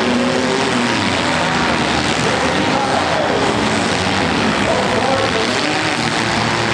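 Several compact cars' engines revving together in a demolition derby heat, pitches rising and falling over each other in a steady loud din.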